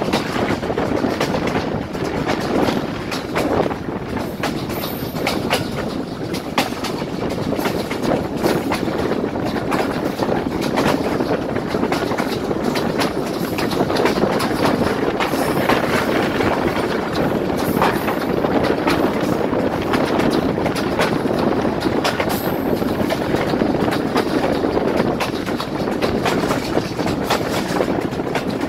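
Passenger train coach running at speed, heard at the open window: a steady rumble of wheels on the track and rushing air, with frequent clicks of the wheels passing over rail joints.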